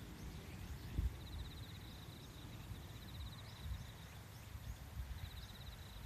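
Outdoor nature ambience: a rapid, high, pulsing trill, like an insect or small bird, comes and goes in short runs, over faint short high chirps and a low rumble.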